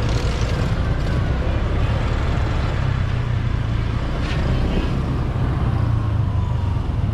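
Ride on a motorbike taxi: steady wind rumble on the microphone over the motorbike's engine and surrounding road traffic, with a brief click about four seconds in.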